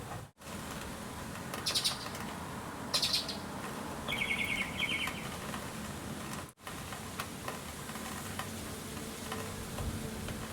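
Outdoor ambience with birds calling: two short high chirps, then a rapid trilled call, over a steady background hiss. The sound drops out for an instant twice at edit cuts.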